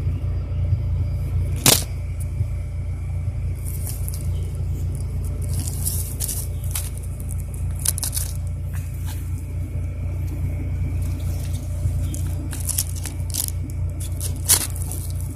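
Honda Civic's stock D16 four-cylinder engine idling through a Spoon muffler: a steady, low exhaust rumble with no revving. Two sharp clicks come through, one about two seconds in and one near the end.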